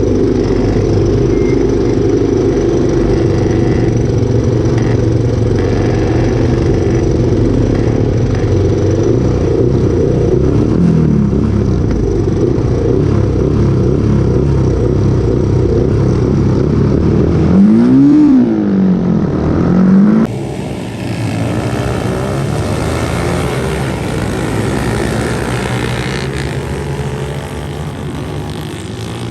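Motorcycle engine running and revving, its pitch rising and falling repeatedly. About 20 seconds in, the sound cuts abruptly to quieter engine noise from a different recording.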